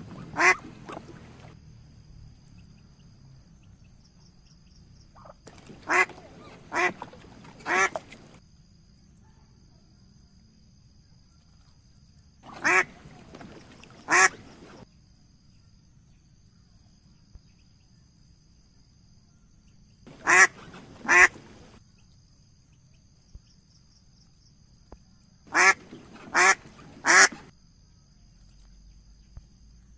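Duck quacking: about a dozen short, loud quacks in groups of one to three, several seconds apart, over a faint steady high-pitched tone.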